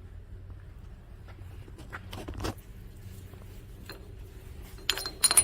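A few light clicks, then sharp metal clinks with a short ringing near the end, as metal parts of an engine lathe are handled, likely the indexing tool post. A steady low hum runs underneath.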